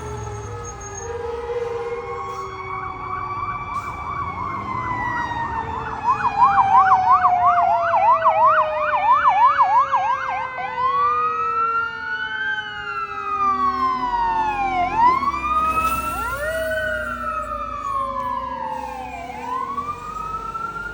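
Fire engine sirens on emergency response. One siren tone winds slowly down in pitch over about twelve seconds. A second siren rises in a wail, switches to a fast yelp about six seconds in, then goes back to slow rising and falling wails that repeat about every four seconds.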